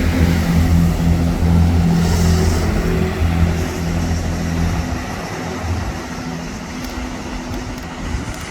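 Diesel train engine running with a steady low drone, growing fainter over the last few seconds as the train moves away.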